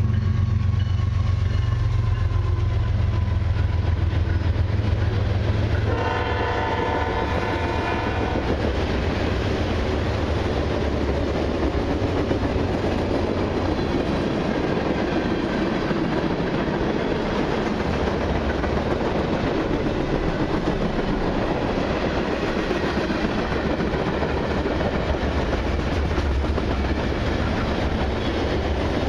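CN freight train passing close by: the lead diesel locomotive's deep engine rumble, then a horn blast of about two and a half seconds starting some six seconds in, then the hopper, tank and box cars rolling past with a steady wheel rumble and rattle.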